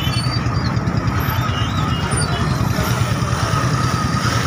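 Motorcycle engine running close by with a rapid low beat, amid the engines of other motorcycles and cars crawling in dense traffic.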